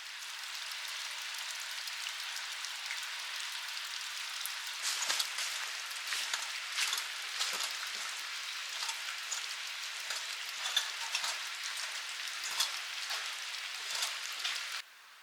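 Food sizzling in a hot frying pan: a steady hiss with sharp spattering pops scattered through it, cutting off abruptly near the end.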